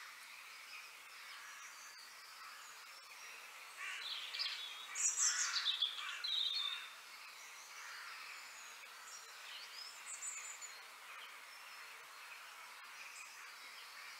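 Birds chirping over a steady outdoor background hiss, with a louder run of quick chirps and calls about four to seven seconds in.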